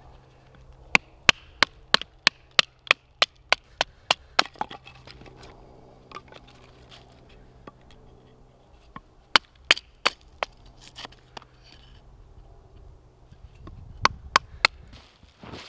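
Wood being chopped with a blade: a quick run of about a dozen sharp woody strikes at roughly three a second, then a shorter run, and three more strikes near the end.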